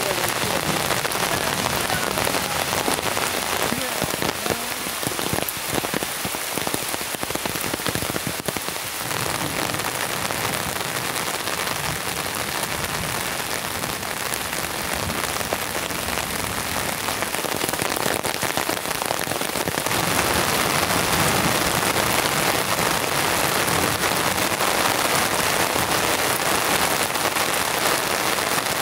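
Heavy downpour: steady, dense rain, which grows louder and brighter about two-thirds of the way through.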